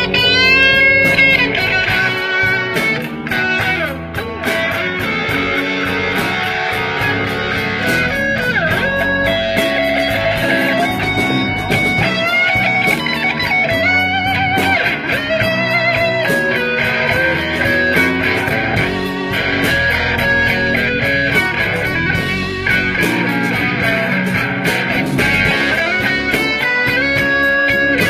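Slow blues played by a band: an electric guitar takes a lead with bent notes over bass and drums, with no singing.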